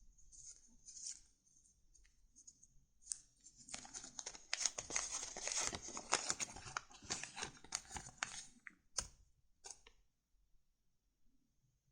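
Paper or card stock rustling and crinkling in the hands: faint scattered rustles at first, a dense run of crackles from about four to nine seconds in, then two sharp ticks.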